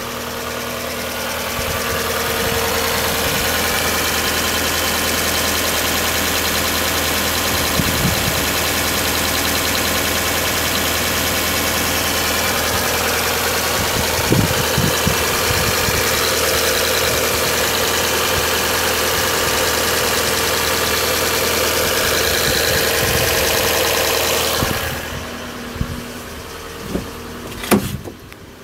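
A 2015 Jeep Renegade's 1.4-litre turbo petrol four-cylinder idling steadily, heard close to the open engine bay. About 25 seconds in, the engine sound drops to a muffled hum, with a few sharp knocks near the end.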